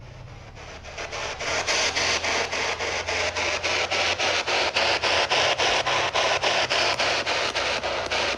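Spirit box sweeping through radio stations: loud hiss and static chopped into a steady stutter of about four pulses a second, swelling in over the first second or two.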